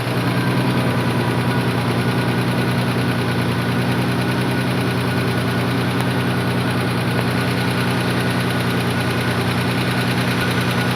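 Audi Allroad's 2.7-litre twin-turbo V6 idling steadily just after being started following an engine replacement.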